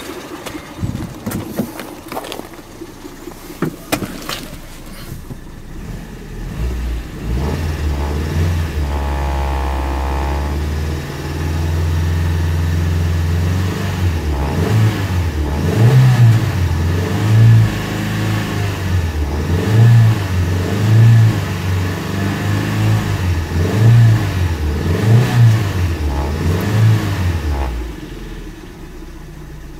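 Hyundai 2.0-litre DOHC 16-valve four-cylinder engine of a 2007 Tucson being revved while parked in neutral. It is held at about 3000 rpm, then blipped up and down about eight times at a regular pace, before settling back to idle near the end. A few knocks and clatter sound in the first seconds.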